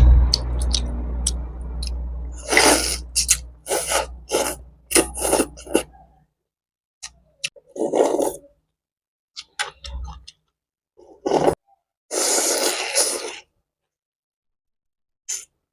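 Close-up eating sounds from a bowl of pho: short, noisy slurps and mouth sounds coming in irregular bursts with silent gaps. A low rumble fades out over the first few seconds.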